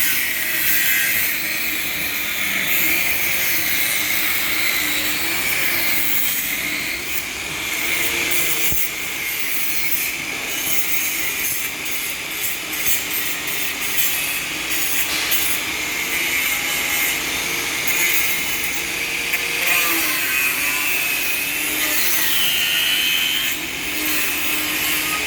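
Angle grinder grinding on a fishing boat. It runs continuously, its pitch wavering as the load on the disc changes.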